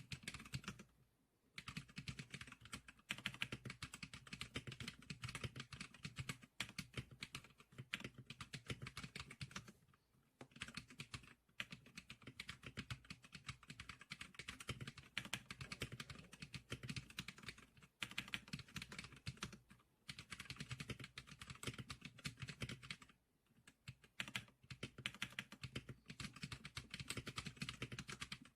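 Typing on the Zclicker SPK100 keyboard: a fast, continuous run of key clicks with a few brief pauses.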